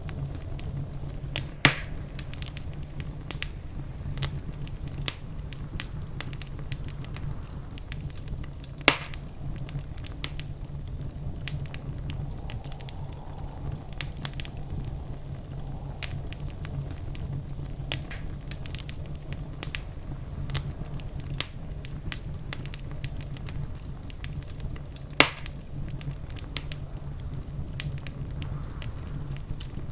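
Wood fire crackling in a fireplace: a steady stream of small snaps and ticks over a low, even rumble, with three louder sharp pops about 2, 9 and 25 seconds in.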